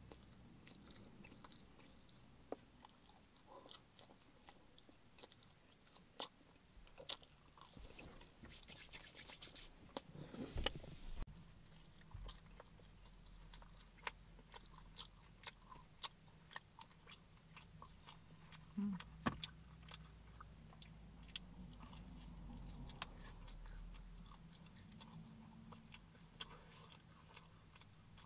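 A person chewing pepperoni pizza close to the microphone: irregular soft mouth clicks and smacks, with a louder burst of noise about ten seconds in.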